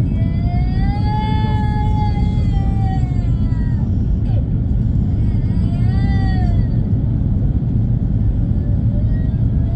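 Steady low rumble of an Airbus A340-300's cabin in flight: engine and airflow noise. Over it, a high wailing sound rises and falls three times, the first lasting a few seconds.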